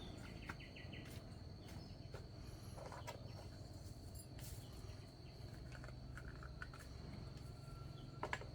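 Faint background ambience: a steady high-pitched whine like an insect's, over a low rumble, with scattered light clicks and short chirps.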